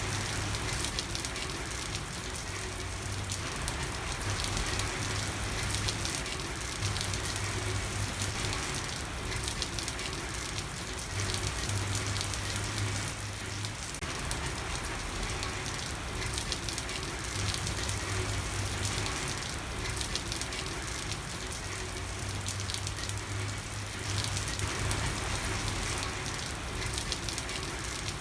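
Steady rain falling and pattering on a street, with slow swells in intensity. A low hum comes and goes every few seconds underneath.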